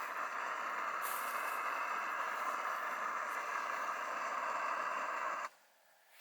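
A steady rushing hiss that cuts off suddenly near the end.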